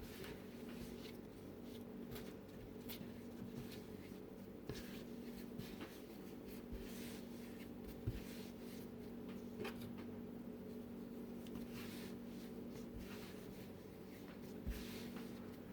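Hands kneading bread dough on a counter, with faint soft rubbing and a few light knocks, over a steady hum.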